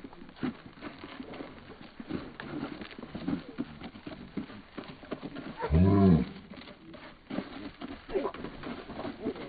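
A cow mooing once, a short low call a little over halfway through, over scattered light clicks and knocks.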